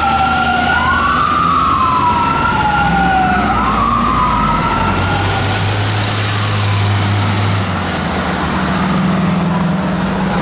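Two fire truck sirens wailing, their pitches rising and falling out of step with each other, fading out about halfway through under steady traffic and heavy engine noise.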